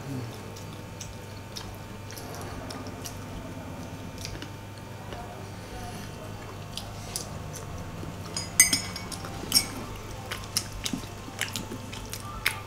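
People chewing and biting into crispy fried banana fritters, with sharp crunchy clicks that come more often and louder in the second half, over a steady low hum.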